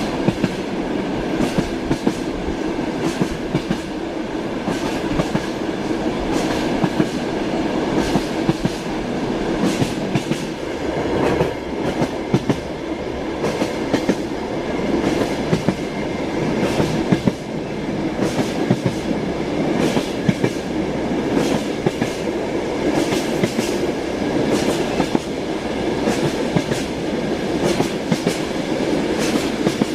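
Moving passenger train heard from inside a compartment: a steady rumble and hiss of the running gear, with the wheels clacking over rail joints again and again.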